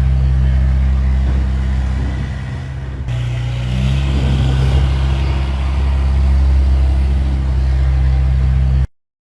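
Tractor engine running steadily, easing off slightly about two seconds in, then picking up speed a little about three to four seconds in. The sound cuts off suddenly near the end.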